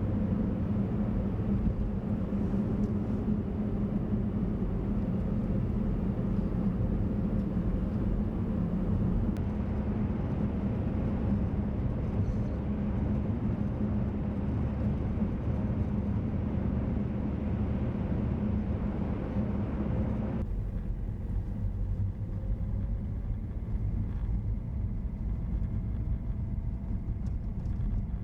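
Steady low road rumble and tyre hiss of a car driving, heard from inside the car. About twenty seconds in, the higher hiss drops away suddenly while the low rumble goes on.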